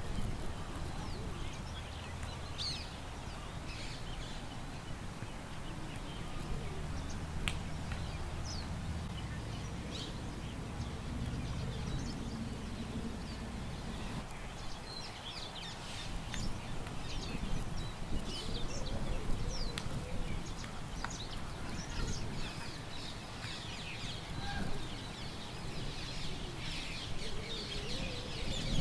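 Outdoor park ambience: small birds chirping in short, scattered calls over a steady low rumble of wind, the chirping growing busier near the end.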